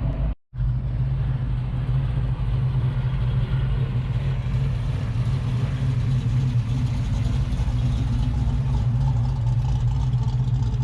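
Mopar muscle car's engine idling with a lumpy cam ('a bump'), a steady deep rumble that cuts out briefly just after the start.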